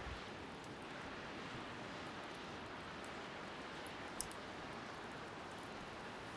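Seaside bonfire crackling with scattered small pops, the sharpest about four seconds in, over a steady hiss of waves and wind.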